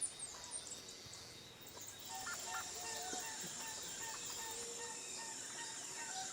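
Forest ambience: birds chirping, with a steady high insect buzz coming in about two seconds in.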